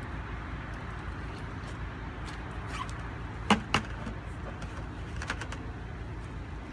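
Steady low engine rumble running throughout, with two sharp knocks close together about halfway through and a few faint clicks after.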